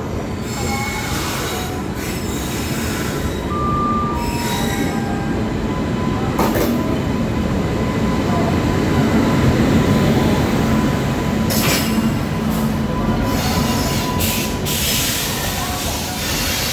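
WAP-7 electric locomotive and passenger coaches rolling slowly past along the platform as the train comes in, a steady rumble of wheels on rail with a thin high squeal running through it. A few sharp clanks come through, around the middle and near the end.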